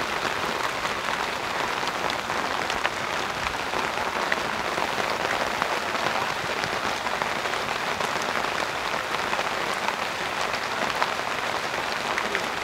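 Steady rain falling: a continuous even hiss with scattered sharp drop ticks.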